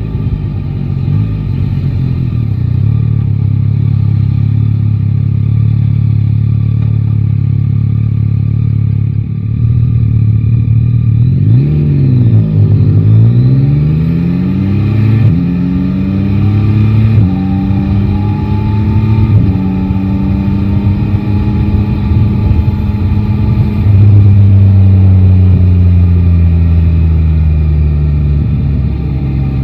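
Yamaha Tracer 9 GT motorcycle's three-cylinder engine running steadily, then pulling away with the revs rising in steps through several gear changes before settling into a steady cruise.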